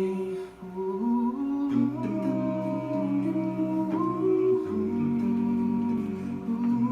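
A cappella vocal group humming sustained chords without words, over a sung bass line that steps from note to note, with a higher voice sliding up into a note a couple of times.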